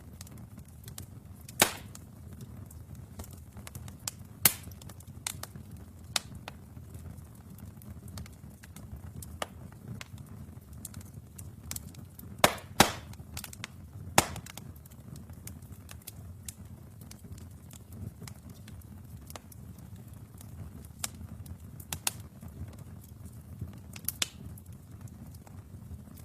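Wood fire burning in a fireplace: a steady low rumble with irregular sharp crackles and pops, the loudest snaps at about two seconds, four seconds, a quick double pop near the middle and another just after.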